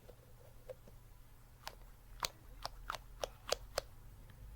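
A squishy stress ball squeezed close to the microphone, giving a run of about eight sharp, irregular clicks and crackles over two seconds.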